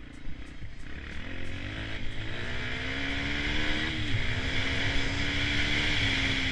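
Dirt bike engine accelerating: its pitch climbs, drops back at gear changes about two and four seconds in, then holds fairly steady as the bike runs on.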